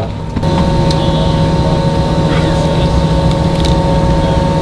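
Steady drone of the E-3 Sentry's aircraft machinery: a loud low hum with several held tones above it, coming in abruptly about half a second in.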